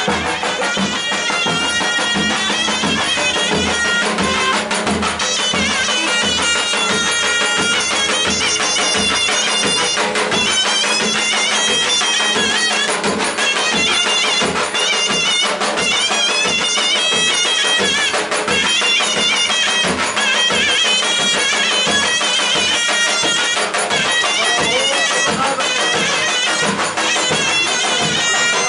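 Turkish folk wedding music: a shrill reed wind instrument plays a fast, ornamented melody over a steady drum beat.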